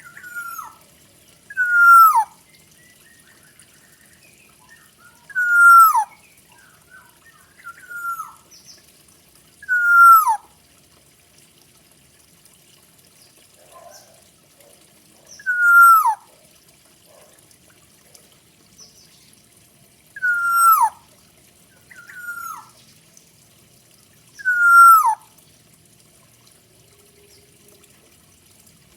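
Forest oriole (kepodang hutan) calling: about nine short whistled notes, each sliding downward, repeated at gaps of a few seconds, with a faint high squeaky edge to each note.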